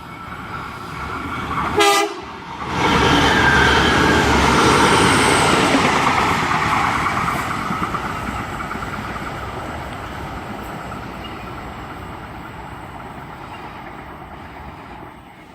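A short horn blast about two seconds in, then an Xplorer diesel multiple unit running through the station. Its noise swells right after the horn and slowly fades away.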